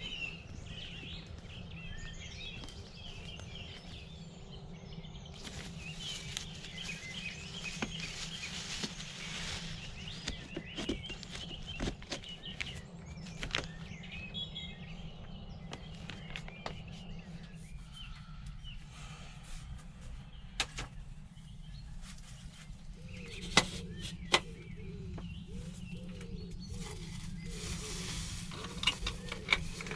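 Small songbirds chirping and calling over a steady low background noise, with a few sharp clicks; a lower, repeated call joins near the end.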